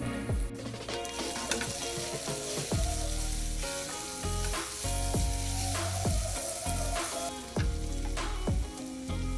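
Onion-tomato masala with ground spices sizzling in a hot pan as it is stirred, the hiss dropping away about seven seconds in. Background music with a steady beat plays throughout.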